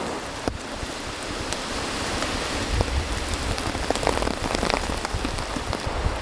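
Steady rain falling, with scattered sharper drops landing close by; a low rumble comes in about halfway through.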